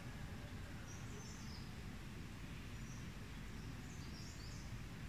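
Faint outdoor ambience: a low steady rumble with a few distant bird chirps about a second in and again near the end.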